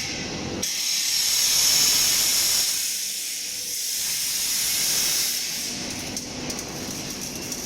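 A loud, steady hiss, like air or steam rushing, that sets in about a second in, swells, eases briefly, builds again and tapers off near the end.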